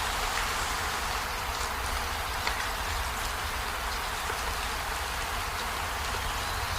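Steady rain falling, an even hiss with scattered distinct drops, over a constant low rumble.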